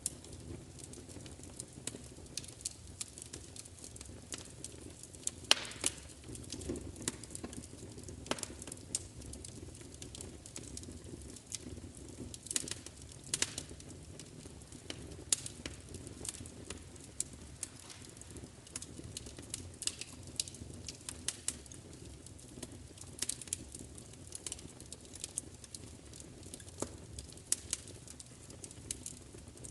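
Wood fire crackling: irregular sharp pops and snaps, a few louder ones standing out, over a steady low rumble of flames.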